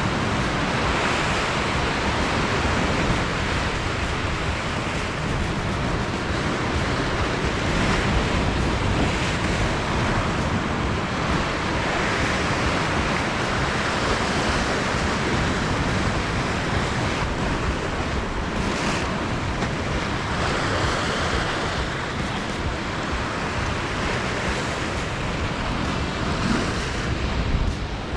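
Surf breaking against a rocky shore, a continuous wash that swells and eases every few seconds, with wind rumbling on the microphone.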